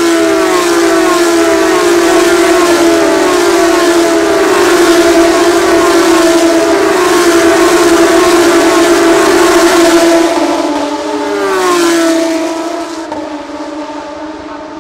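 GP3 race cars' V6 engines at full throttle going past in a group, overlapping engine notes rising again and again for about ten seconds. Another car passes about 12 s in with a falling pitch, then the sound fades.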